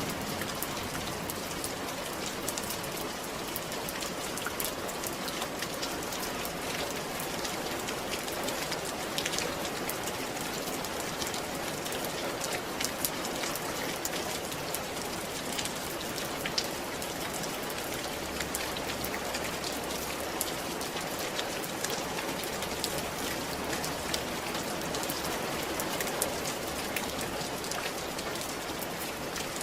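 Steady rain falling on a roof: an even hiss of rainfall, with many separate drops ticking sharply.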